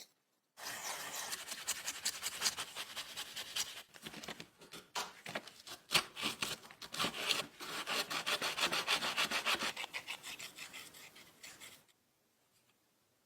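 Rapid abrasive scraping, many short rubbing strokes in quick succession, as a part of the old lamp is worked by hand during restoration. It starts about half a second in and stops shortly before the end.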